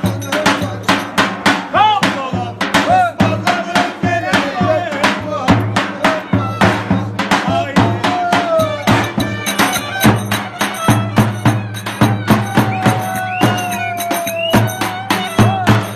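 Turkish folk dance music with a fast, driving drum beat, a steady low drone and a bending melody line above it.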